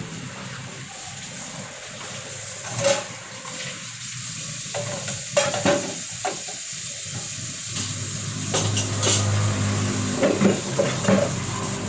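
Kitchen work sounds: a handful of sharp clinks and knocks from utensils and cookware, the loudest near the middle and a cluster near the end, over a steady hiss while a pot of chicken soup heats toward the boil.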